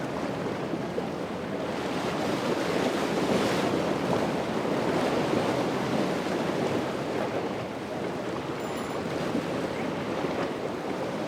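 Ocean waves breaking and surf rushing, with wind buffeting the microphone; the rush swells louder a couple of seconds in and eases again later.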